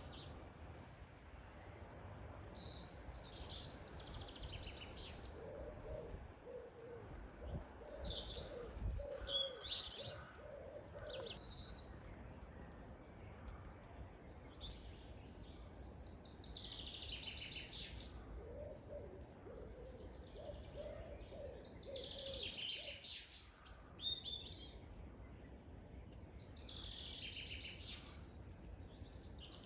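Wild birds singing and chirping throughout, with short high song phrases. Twice, a lower bird call sounds as a run of about eight evenly spaced hooting notes.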